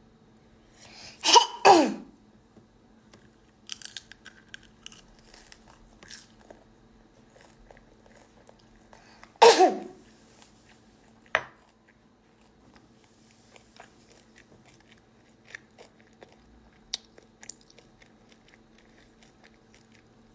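A person coughs twice in quick succession, then once more about nine seconds in, with faint clicks and mouth sounds of eating in between, over a steady low hum.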